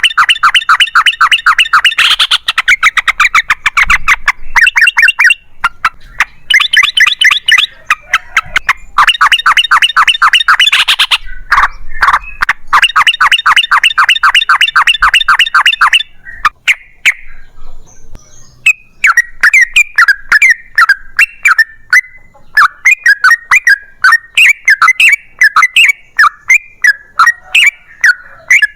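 Yellow-vented bulbul (trucukan) singing long runs of rapid, repeated bubbling notes. The runs break off about sixteen seconds in, and a looser series of separate chattering notes starts again a few seconds later.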